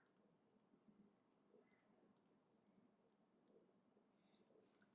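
Faint, irregular clicks of computer keyboard keys being typed, a dozen or so short taps spread unevenly across a few seconds.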